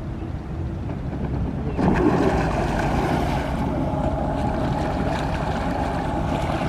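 Jet ski engine running on the water, with wind buffeting the microphone; the engine and water noise get louder about two seconds in and then hold steady.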